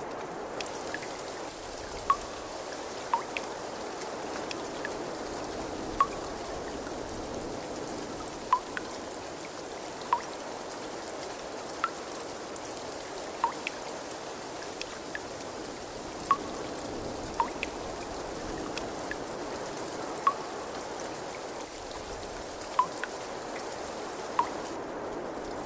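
Water trickling steadily, with single drops plinking into water every second or two.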